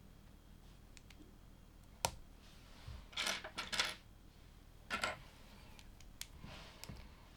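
Plastic LEGO pieces clicking and rattling as they are handled and fitted together: one sharp click about two seconds in, then clusters of rattling clatter and a few lighter ticks.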